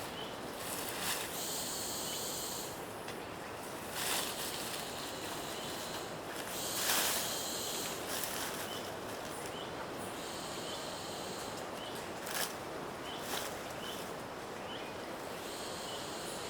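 Rainforest ambience: a steady hiss with two stretches of high buzzing, a few short faint chirps, and scattered brief rustles or knocks, the loudest about halfway through.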